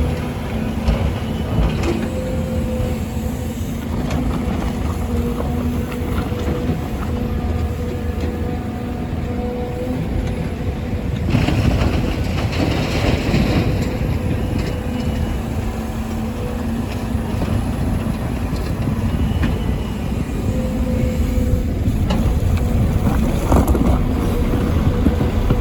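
Volvo EC300E excavator's diesel engine and hydraulics running steadily with a constant hum, with a louder rush of noise for a couple of seconds near the middle.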